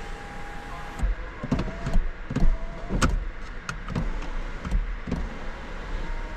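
A run of about ten irregular sharp clicks and knocks from a car being handled, over a steady high electronic tone that stops about a second in. A different steady tone comes in near the end. There is no engine cranking or running.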